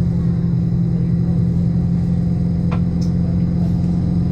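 Railway diesel engine running at a constant speed, a loud, even low hum, with one short click about two-thirds of the way through.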